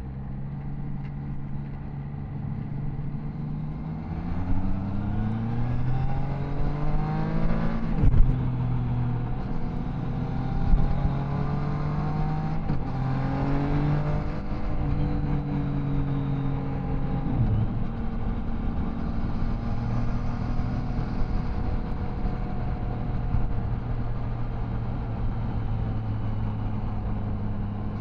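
Triumph Tiger Sport 660's three-cylinder engine accelerating through the gears, its revs climbing and then dropping sharply at upshifts about eight and fourteen seconds in, with another drop a few seconds later, then settling into a steady cruise.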